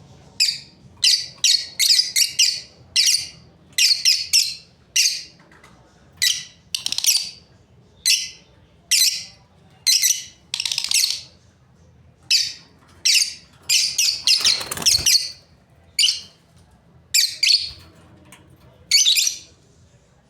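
Lovebirds calling: sharp, high-pitched chirps and squawks in an irregular run of about one or two calls a second. A brief low thump comes about fifteen seconds in.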